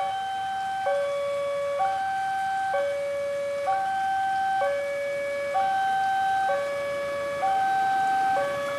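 Railway level-crossing warning alarm sounding an electronic two-tone hi-lo signal, switching evenly between two pitches a little under once a second at steady loudness: the crossing is warning of an approaching train.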